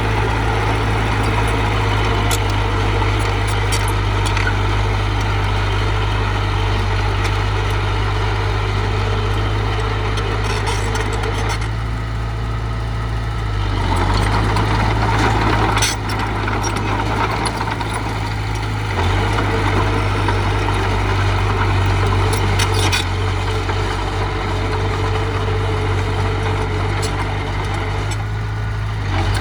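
Heavy diesel engine of an earthmoving machine running steadily, its low hum shifting a couple of times about halfway through, with a few light clanks.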